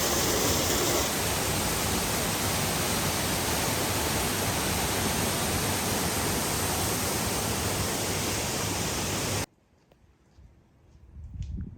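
Waterfall rushing in a steady, even roar of falling water, which cuts off suddenly about nine and a half seconds in, leaving only faint quiet ticks.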